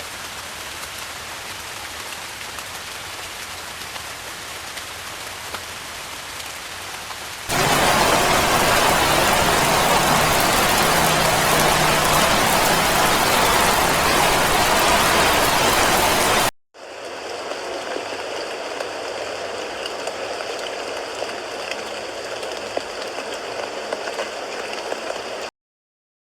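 Rain falling, in three stretches joined by abrupt cuts: a moderate shower at first, then a much louder, heavier downpour from about seven seconds in, then after a brief drop-out a softer stretch that stops suddenly shortly before the end.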